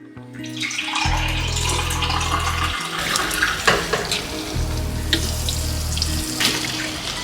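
Water running steadily, with occasional clinks and knocks, over background music.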